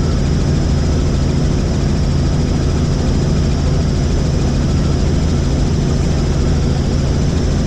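Helicopter in flight: steady rotor and engine drone, even and unchanging throughout.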